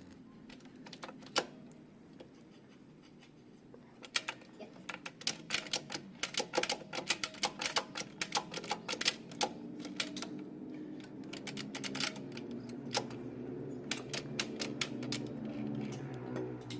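Rapid, irregular metallic clicking and tapping of hand tools on a motorcycle engine being assembled, several clicks a second, starting about four seconds in. A low steady hum runs underneath.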